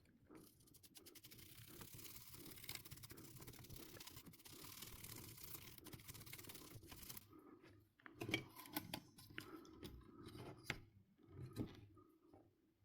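Faint, steady scratchy scraping or brushing for about seven seconds, followed by a run of small clicks and knocks from parts being handled during hand work on a PS4 console.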